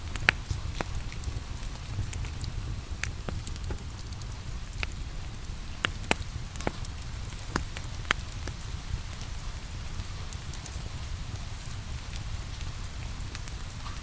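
Wood fire crackling, with sharp pops scattered irregularly, several close together midway, over steady rain and a low, even rumble.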